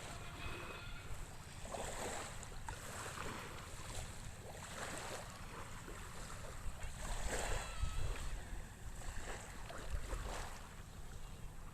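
Small waves of a calm sea lapping in soft surges every second or two, with wind rumbling on the microphone.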